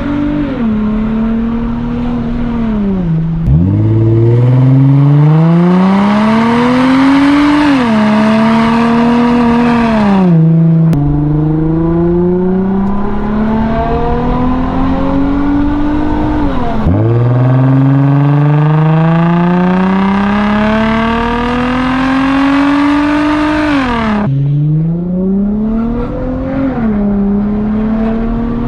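Infiniti G35's 3.5-litre V6 with a muffler-deleted exhaust, pulling hard through the gears. The pitch climbs steadily and drops sharply at each of about four upshifts.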